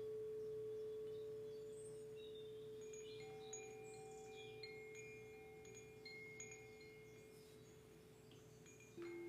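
A singing bowl struck once, its single clear tone ringing and slowly fading, with high tinkling chimes sounding over it from about two seconds in. Near the end a second, lower bowl tone is struck.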